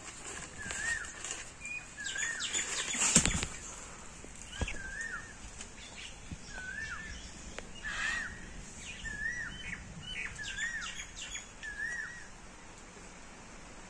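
A bird repeating a short note that rises and falls, about once a second, with fainter chirps around it. A loud thump comes about three seconds in, and a smaller knock a second and a half later.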